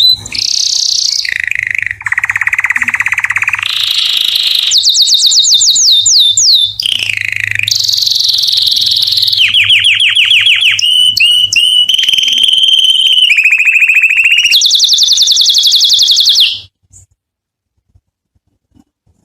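Domestic canary singing one long song of rapid trills, each phrase a quick run of one repeated note that switches to a new pitch every second or two. It stops abruptly about three seconds before the end, leaving only a couple of faint chirps.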